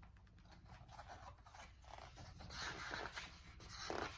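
Faint rustling and scraping of paper, a picture book's page being handled and turned, over a low steady hum.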